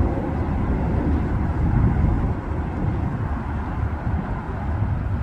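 Steady low rumble of a passing train.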